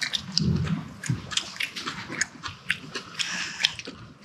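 People chewing spicy pork and kimchi stir-fry with open-mouthed smacking: an irregular string of short, sharp smacks and clicks.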